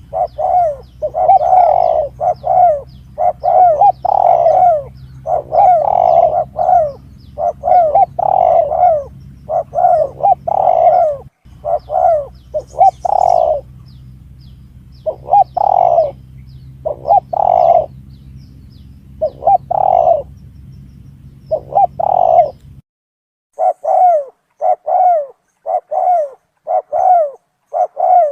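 Spotted dove (tekukur) cooing in repeated phrases: a bird-lure call for hunting doves. A low steady hum under the calls stops about 23 seconds in, and after a short gap the cooing carries on without it.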